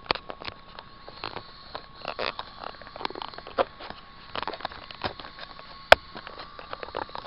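Irregular clicks, taps and knocks picked up close to the camcorder's microphone on the RC truck, with one sharp click about six seconds in, over a faint steady whine.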